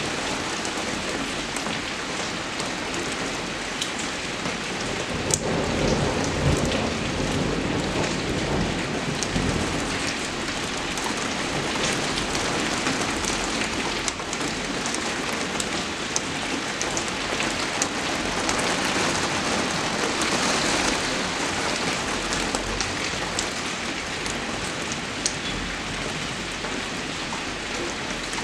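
Steady rain falling, with many sharp ticks of individual drops striking close by. A brief low swell comes about six seconds in.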